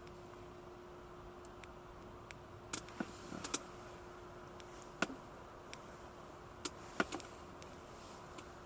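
Scattered sharp clicks and pops, irregularly spaced and a few louder ones near the middle and later on, over a faint steady hum.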